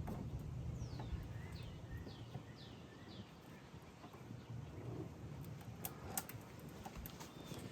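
A small bird chirping in the background: a quick run of about five short, falling chirps starting about a second in, with a few sharp clicks and a low steady rumble underneath.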